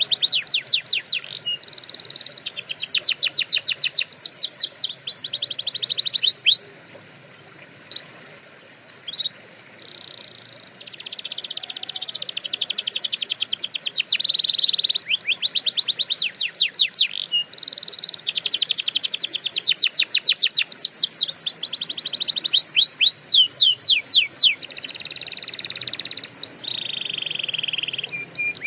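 Domestic canary singing a long song: fast trills of rapidly repeated notes alternating with buzzy held notes, broken by a pause of a few scattered chirps about seven seconds in.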